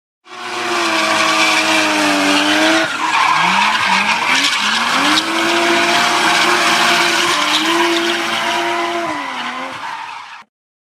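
Sound effect of a car engine running hard with a hiss over it. Its pitch drops about three seconds in, then climbs in a few quick rises before holding steady and dipping again near the end. It starts and cuts off abruptly.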